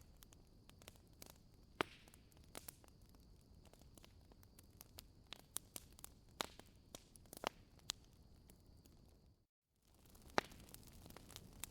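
Wood fire crackling in a fireplace: irregular sharp pops and snaps over a faint hiss. About nine and a half seconds in the sound cuts out completely for a moment, then the crackling resumes.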